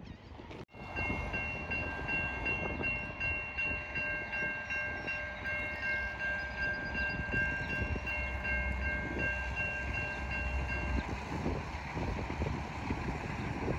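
New Jersey Transit train running by with a steady rumble, and a high-pitched tone of several notes sounding together for about ten seconds before it stops, leaving the rumble.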